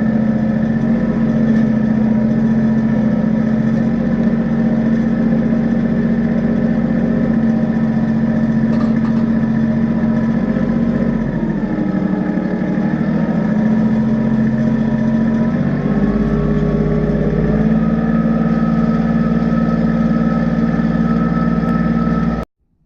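Kubota tractor's diesel engine running steadily, its pitch dipping briefly about halfway through and shifting again about two-thirds in. The sound cuts off abruptly near the end.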